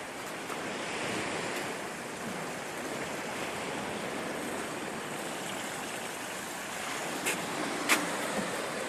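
Sea waves breaking and washing along a beach, a steady rushing noise that swells a little about a second in. Two short sharp clicks come near the end.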